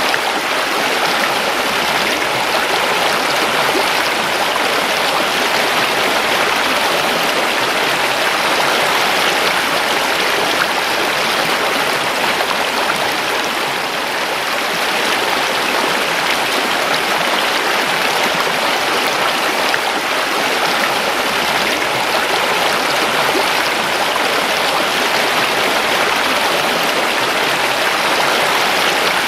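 A river's flowing water rushing steadily, a constant full hiss with no breaks or changes.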